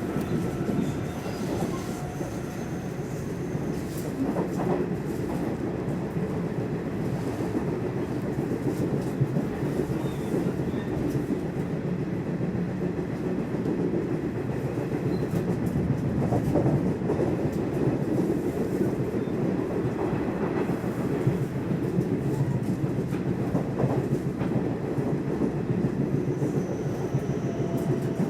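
Nishitetsu electric commuter train running at speed, heard from inside the carriage: a steady rumble of wheels on rails with occasional clicks as the wheels pass over rail joints.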